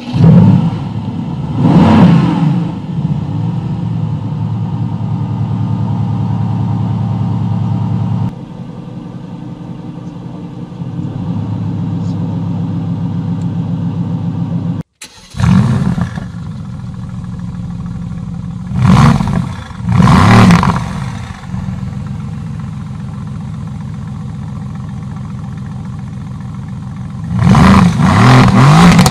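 Mercedes-AMG GT S 4.0-litre twin-turbo V8 starting with a loud flare, blipping once, then idling and settling to a lower idle after several seconds. After a sudden cut it starts again with a flare, is revved twice in quick succession, idles, and is revved hard again near the end.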